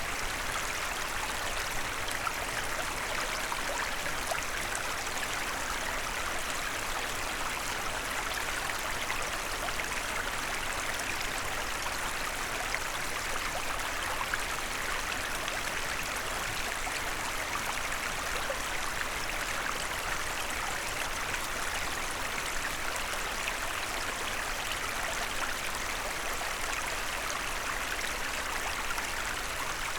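Small forest stream running steadily, water rushing and babbling over stones.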